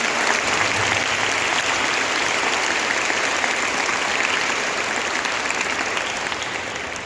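A large audience clapping steadily, fading away near the end.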